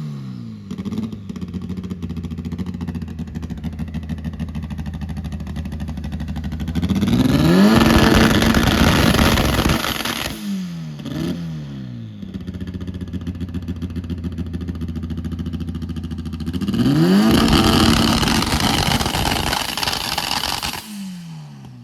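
Race car's four-cylinder engine idling and revved hard twice, each time held flat at a fixed high rpm for three or four seconds on a two-step launch limiter, with a short blip of the throttle in between.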